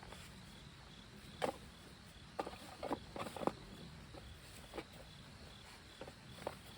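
Insects chirping steadily in a high, pulsing trill. A few scattered short knocks and rustles come through it, clustered in the middle.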